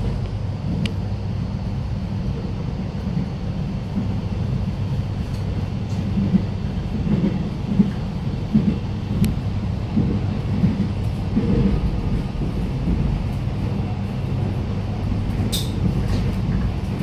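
Suburban electric train running, a steady low rumble with uneven swells and a few faint clicks.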